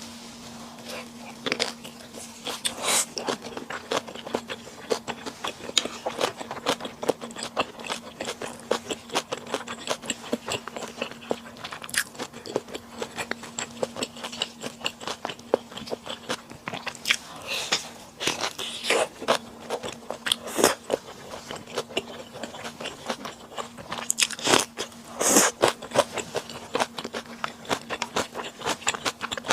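Close-miked eating sounds: a person biting and chewing food, with many sharp, irregular clicks and crunches. A faint steady hum runs underneath.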